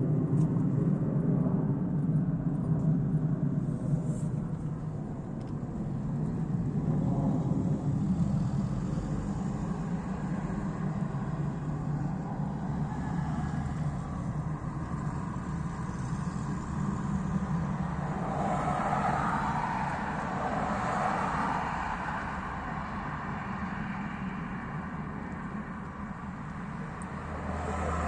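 Steady low rumble of road traffic, with a louder swell of a passing vehicle about two-thirds of the way through.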